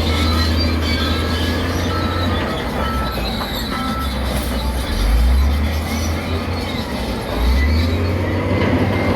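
Heavy diesel earthmoving machine working, its engine rumbling low and changing pitch as it works, with metallic squealing and clanking. A reversing alarm beeps steadily in the first few seconds.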